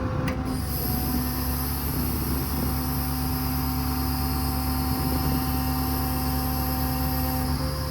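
The truck's 6.7 L Power Stroke diesel running steadily while powering the hydraulic crane, with a thin high whine that starts about a second in and stops near the end as a crane function is worked.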